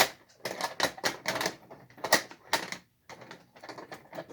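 Irregular clicks and clatter of a Lionel toy train box car being handled and set down onto the track, its wheels and metal parts knocking against the rails.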